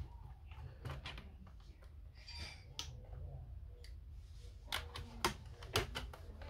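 A handful of sharp clicks and taps as tools and parts are handled while an Apple Time Capsule is taken apart, over a steady low hum.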